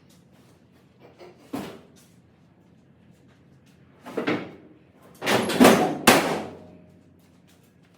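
A few knocks and clatters, like a door or lid being handled: a short knock about one and a half seconds in, a rattling clatter around four seconds, and a longer clatter ending in a sharp bang about six seconds in.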